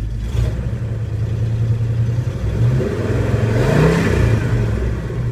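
A 1971 AMC Javelin AMX's V8 engine running steadily, then revving up about three and a half seconds in and dropping back.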